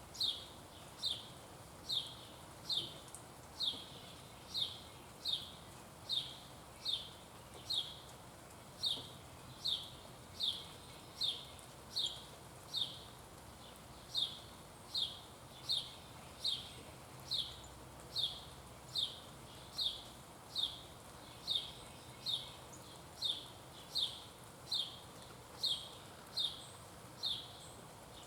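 A small songbird repeating one short, falling chirp over and over, a little more than once a second, at a steady pace.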